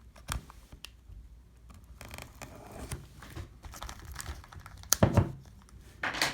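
Trading-card packaging being handled: light crinkling and rustling with small clicks, and a knock about five seconds in and another near the end.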